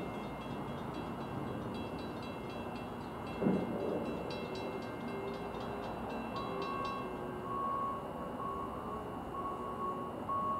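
Electric commuter train going away past the station, its wheel clicks ticking steadily and fading out about seven seconds in. A faint ringing tone then starts repeating in short even pulses.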